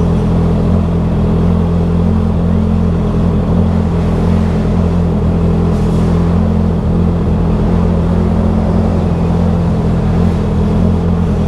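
Motorcycle engine running steadily at an even speed while riding, with road noise.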